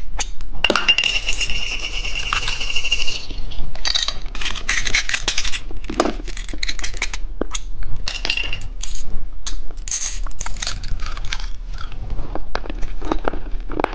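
Plastic candy packaging handled and opened close to the microphone: a long run of clicks, taps, scrapes and crinkles. A steady high tone lasts about two and a half seconds near the start.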